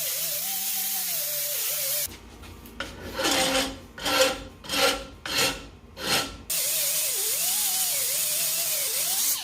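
Rotary grinder smoothing a TIG weld on a cast aluminum rearset mount, a steady hiss with a motor pitch that wavers up and down as it loads. From about two seconds in, this gives way to about five rhythmic rubbing strokes on the metal, roughly two every second. Near six and a half seconds the grinding comes back.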